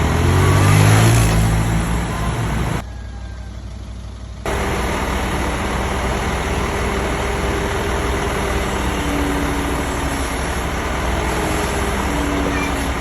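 A heavy vehicle engine running steadily under a noisy haze, with a low hum strongest in the first two seconds. The sound drops off abruptly for about a second and a half near three seconds in, then comes back at the same level.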